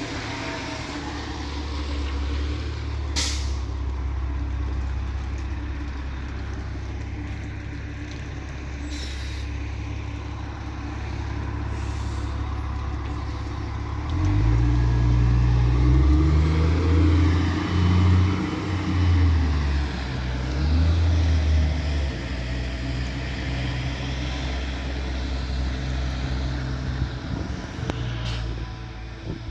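Low, droning, horn-like hum that holds steady, then swells louder in the middle with tones shifting between a few pitches before settling back. It is the unexplained night-time sky noise that some call trumpets.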